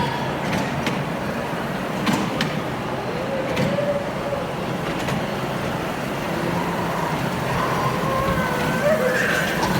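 Train running with a steady rumble and a few short clicks.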